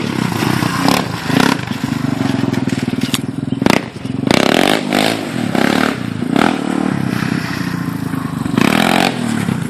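Yamaha Raptor 350 ATV's single-cylinder four-stroke engine revving hard and easing off again and again as it is ridden. It is loud, with a couple of sharp cracks a little past the middle.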